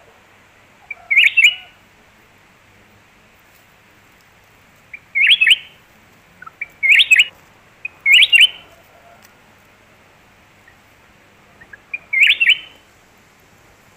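A bird calling: five short, loud phrases a few seconds apart, each a quick cluster of sharp notes.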